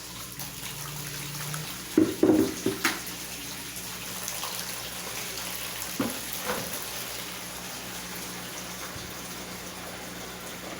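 Consul washing machine draining: water running out steadily with a low steady hum underneath. A few loud knocks come about two seconds in and again around six seconds.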